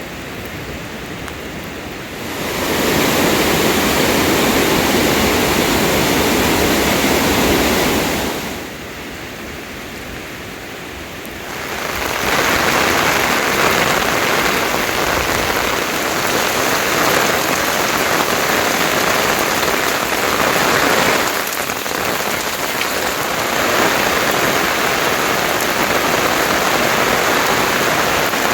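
Heavy rain pouring down as a dense steady hiss. It swells sharply a couple of seconds in, eases for a few seconds about a third of the way through, then comes back just as heavy.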